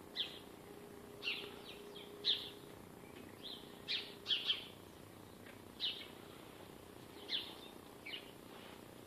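Small birds in trees chirping: about a dozen short, sharp chirps at irregular intervals, some in quick pairs.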